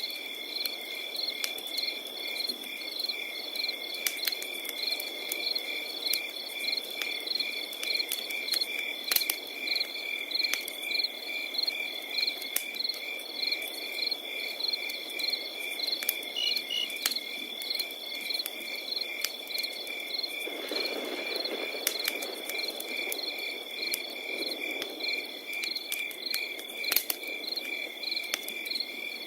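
Crickets calling: one steady unbroken trill with other crickets chirping in a quick regular pulse over it. Beneath them a wood fire crackles, with scattered sharp pops and a low rushing sound that swells about twenty seconds in.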